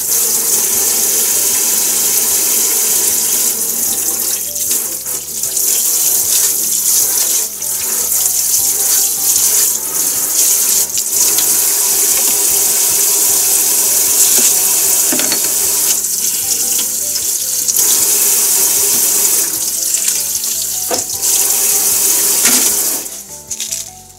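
Kitchen tap running hard into a sink: a steady rush of water with a few brief dips, as if hands or something held under the stream break it. It shuts off abruptly near the end.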